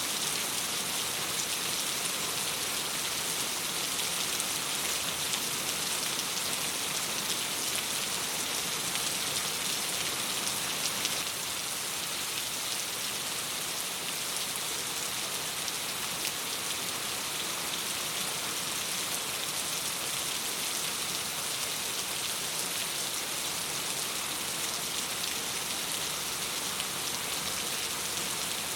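Steady rain falling on a window glass, an even hiss with no let-up, dropping slightly in level about eleven seconds in.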